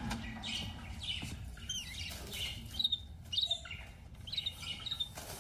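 Birds chirping: short, high calls repeating about every half second over a faint low rumble.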